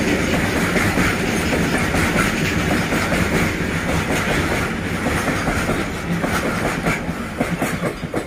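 BCNHL covered goods wagons of a freight train rolling past close by, their steel wheels clattering steadily over the rail joints. The sound fades over the last couple of seconds as the tail of the train passes.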